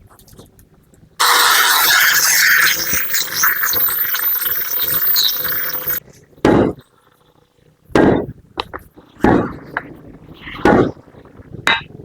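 A power tool working on metal with a steady whine for about five seconds, then four short, harsh scraping strokes a second or so apart.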